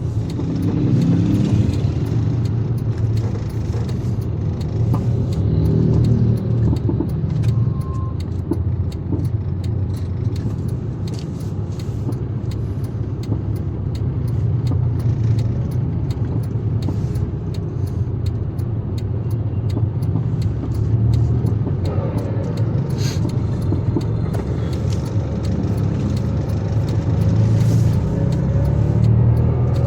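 A motor vehicle driving along the road: a steady low rumble of engine and road noise that swells and eases slowly.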